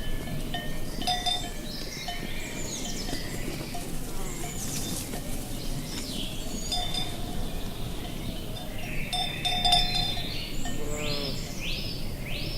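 Cowbells on grazing cattle clanking irregularly over a steady rush of wind, with a quick series of rising chirps near the end.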